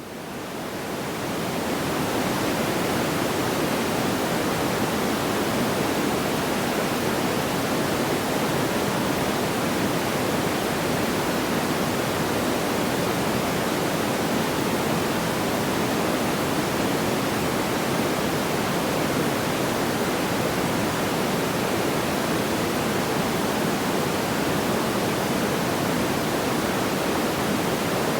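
Steady, even rushing noise like pink noise, with no crackles or pops. It swells up over the first two seconds and then holds level.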